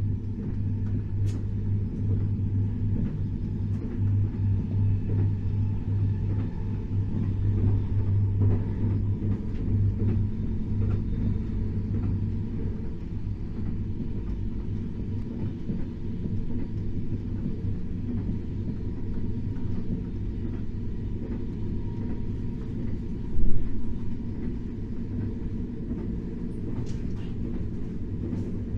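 KTX high-speed train running at speed, a steady low rumble with one brief louder knock late on.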